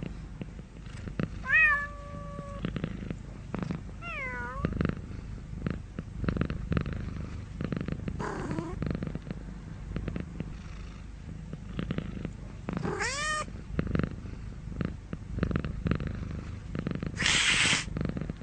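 Domestic cat purring steadily, with a few short meows: one rising and held about a second and a half in, a falling one about four seconds in, a faint one midway and a rising one past the middle. A short burst of noise comes near the end.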